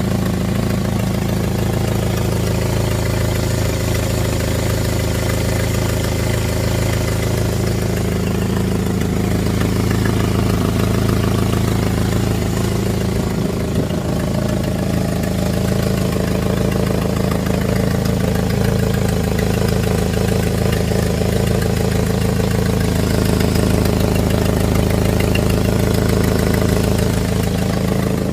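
Jeep engine idling steadily with an exhaust leak.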